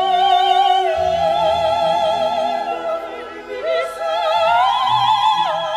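Operatic singing: a voice holding long notes with wide vibrato, stepping up to a higher sustained note about four seconds in and dropping back down near the end.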